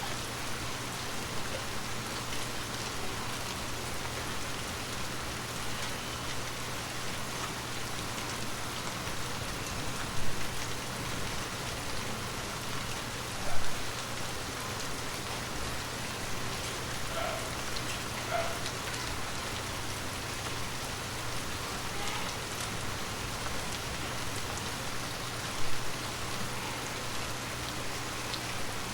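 Water drops tapping on glass in a steady, dense patter, with three louder single drops standing out along the way and a faint low hum underneath.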